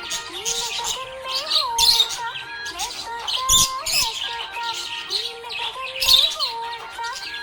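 Budgerigar chirping and twittering in quick, bright bursts, one after another.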